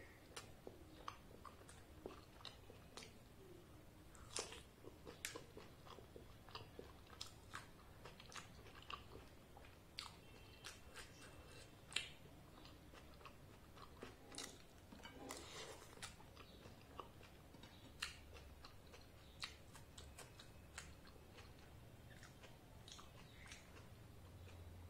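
Quiet close-up eating sounds: a person chewing puffed luchi and ghugni, with scattered wet mouth clicks and soft crunches, and one sharper click near the middle.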